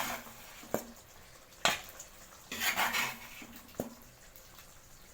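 Spoon scooping thick chicken masala out of a clay pot and into another vessel: three sharp clinks and a couple of short scrapes.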